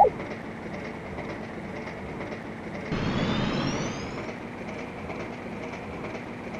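A train running by as a steady rumble with faint regular clicking. About three seconds in it swells louder for a second or so, with a brief rising high-pitched whine.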